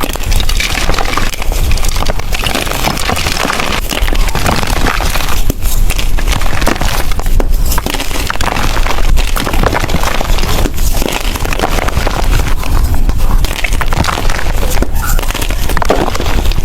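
Blocks of gym chalk being crushed and crumbled by hand close to the microphone: a dense, continuous crunching crackle.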